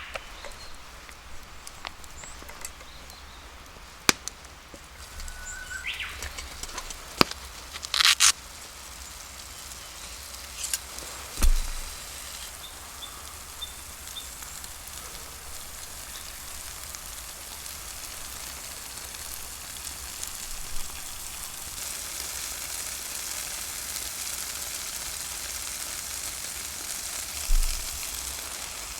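Food frying in a pan over a campfire, the sizzle building steadily louder through the second half. A few sharp clicks and knocks come in the first several seconds.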